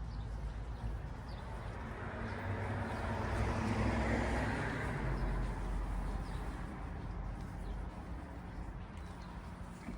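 A car passing by on a road, its tyre and engine noise swelling to a peak about four seconds in and then slowly fading. Faint bird chirps sound over it.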